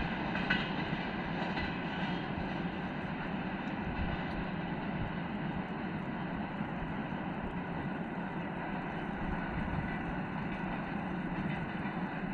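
Electric freight train running away into the distance, a steady rumble of wheels on rail that eases off slightly as it recedes.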